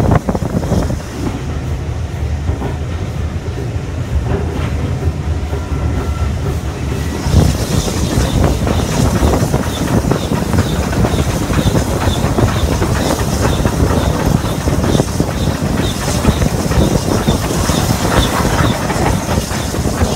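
Steam-hauled heritage passenger train running along the line, heard from an open carriage window: steady rumble and rolling noise of the wheels on the track. From about a third of the way in, a regular light clicking of about two a second comes in, with more hiss.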